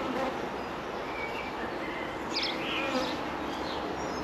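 Honeybees buzzing around an open hive, a steady hum from a colony that has been defensive and stinging at the beekeeper. A few short high chirps sound a little past the middle.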